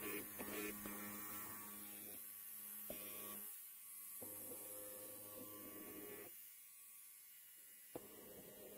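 Electric hair clipper buzzing with a steady low hum. It drops out briefly about three and a half seconds in and again for about a second and a half near the end, coming back with a click.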